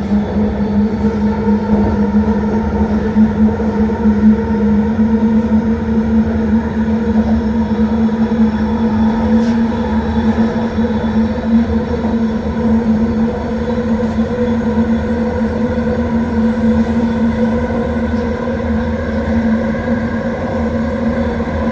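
Vancouver SkyTrain train running along the track: a steady rumble of wheels on rail under a loud, even motor whine from its linear induction motors. The whine creeps slightly up in pitch.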